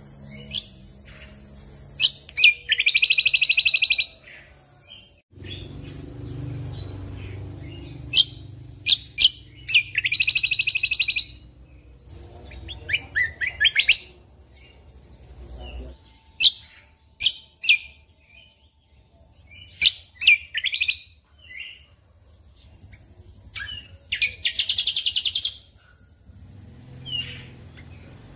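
Cucak kombo (kecial kombok) songbird singing: sharp high chirps and whistles broken by rapid, buzzy trills about a second and a half long, three times, near the start, about ten seconds in and near the end.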